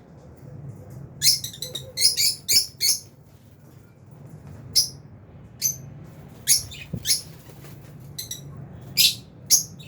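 Lovebirds chirping: a quick run of sharp, high-pitched chirps about a second in, then single chirps every second or so, over a faint low hum.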